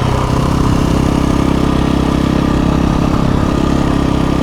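2017 KTM 350 EXC-F dirt bike's single-cylinder four-stroke engine running steadily at a constant low speed.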